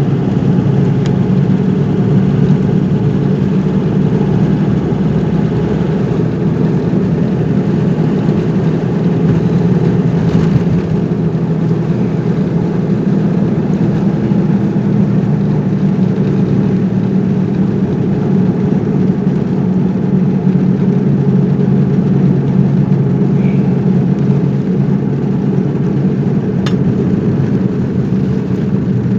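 Steady engine hum and road noise of a car being driven at an even pace.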